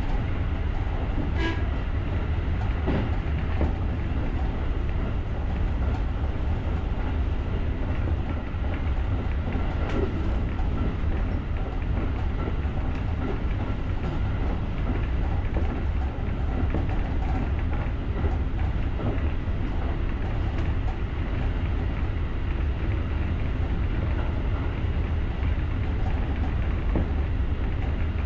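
JR rapid electric train running at speed, heard from the driver's cab: a steady low rumble of wheels on the rails, with a few sharp clicks of the wheels passing over rail joints.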